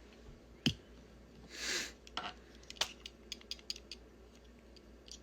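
Light clicks and taps of small objects being handled, with a sharp click under a second in, a short hiss just before the two-second mark, and a run of faint ticks after about three seconds.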